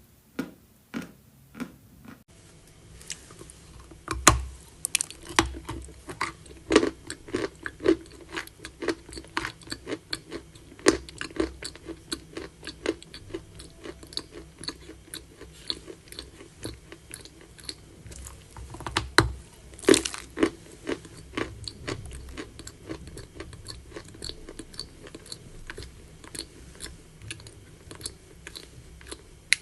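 Close-up crunching and chewing of eating chalk: a few spaced crunches, then after about two seconds a dense run of crisp bites and chews, with a few much louder bites standing out.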